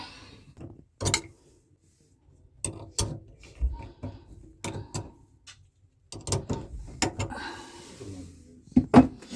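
Scattered clicks and knocks of hands refitting a drain hose and tightening its connection, with a ratchet-like clicking here and there and some rustling near the end.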